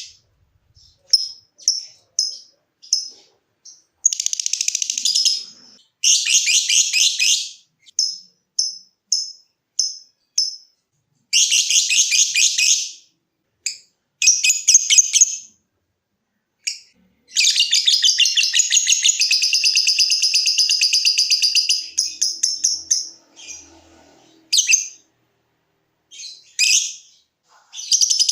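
Lovebird calling: short, sharp, high chips repeated in short runs, alternating with rapid high chattering bursts. The longest burst, about five seconds, comes in the middle. This is the long chattering song that lovebird keepers call "ngekek".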